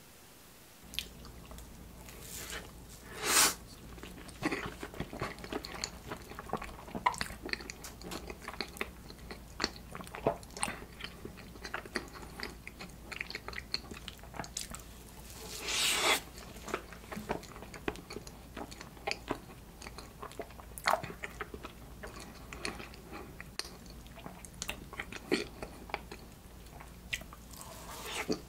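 Close-up mouth sounds of someone eating soft cheese-shaped cake: bites, wet chewing and lip smacks as a run of small clicks. There are a few louder bursts, about three seconds in and again near the middle.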